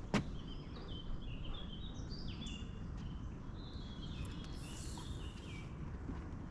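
A songbird singing a run of short, high notes that step up and down for about four seconds, over steady low outdoor background noise. A single footstep sounds just at the start.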